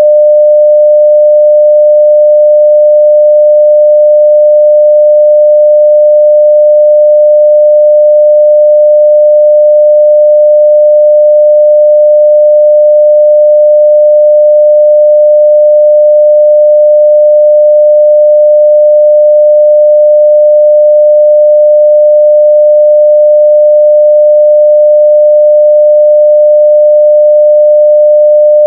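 A 600 Hz sine-wave test tone at full level, one pure, steady pitch with no change.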